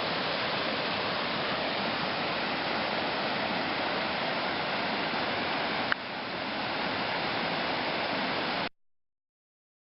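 Steady rush of falling water from a creek cascade running high after heavy rain and snowmelt. A click and a brief dip about six seconds in, then the sound cuts off abruptly to silence near the end.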